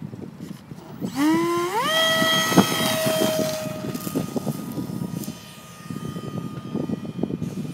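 Electric ducted fan of a radio-controlled F-35 model spooling up: a whine that rises steeply in pitch in two quick steps about a second in, then holds steady and slowly fades. A single sharp click sounds about two and a half seconds in.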